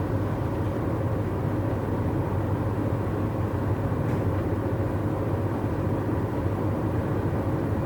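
Steady road and engine noise inside a moving car's cabin: an even, low rumble that holds without change.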